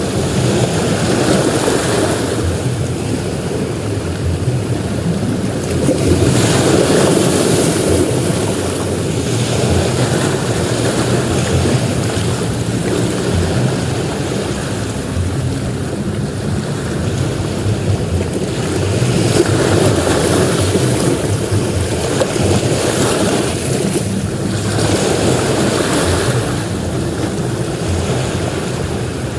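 Ocean surf breaking on a beach: a continuous wash of water that swells louder as each wave breaks, several times over.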